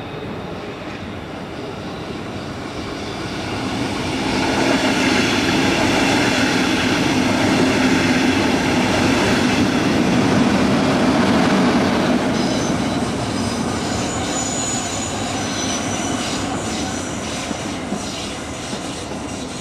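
A double-deck regional train passes close by. Its running noise swells from about four seconds in, is loudest in the middle, then slowly fades. A faint high wheel squeal and clicking wheels come in the second half.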